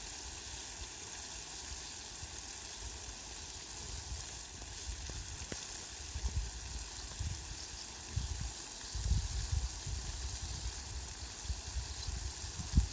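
Steady rain falling, an even hiss, with an uneven low rumble coming and going underneath that grows stronger from about nine seconds in.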